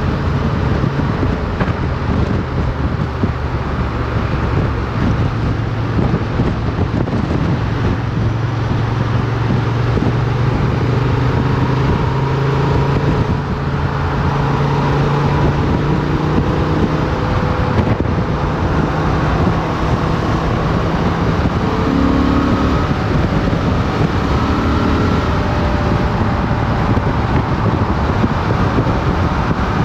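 Motorcycle engine running steadily while riding, heard onboard with wind and road noise on the microphone; the engine note eases off about two-thirds of the way through.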